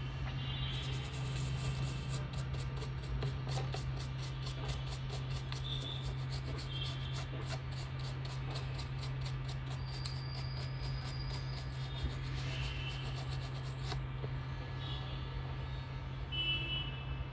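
An ECU circuit board being scrubbed with a brush and isopropyl alcohol: quick, repeated rubbing strokes that stop about fourteen seconds in, over a steady low hum.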